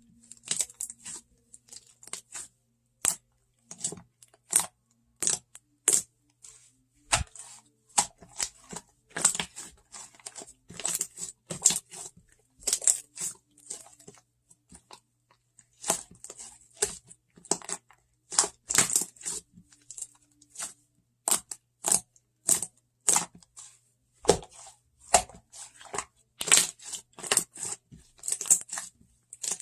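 Slime being squeezed, poked and stretched by hand, giving irregular sharp crackling pops and clicks in quick clusters with short pauses.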